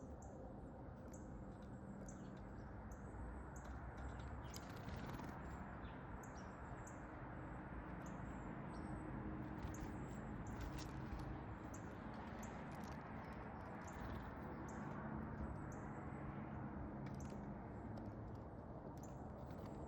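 Small backyard songbirds chirping: many short, high chirps that drop in pitch, repeated throughout, over a steady low rumble.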